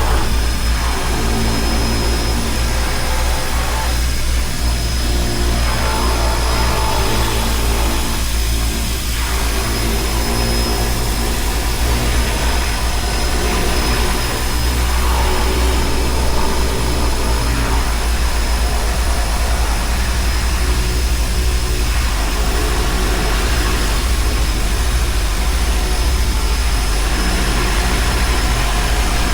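Seaplane's propeller engines running steadily with an even, loud engine note.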